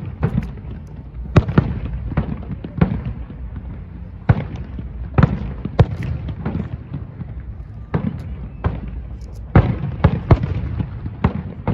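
Aerial fireworks shells bursting in quick, irregular succession: sharp bangs over a continuous low rumble, the loudest about a second and a half in, around the middle and near the end.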